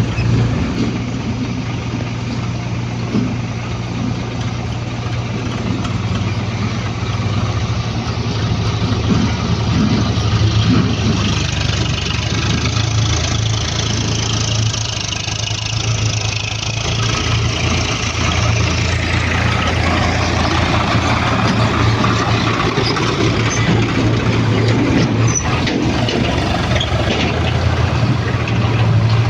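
Heavy diesel engines of a backhoe loader and tractor running steadily with a deep hum. A stretch of rougher, louder noise swells through the middle and then eases.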